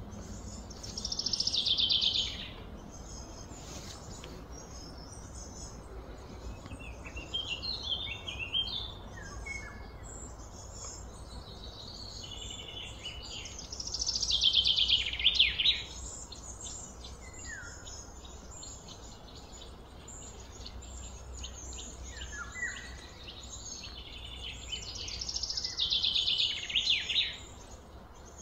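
Wild birds singing: a loud, fast song that falls in pitch over about a second and a half comes three times, roughly twelve seconds apart, with quieter chirps in between, over a steady low hum.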